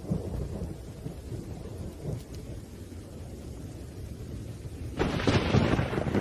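Thunderstorm: low, continuous rumbling of thunder with rain, then a sudden loud crack about five seconds in.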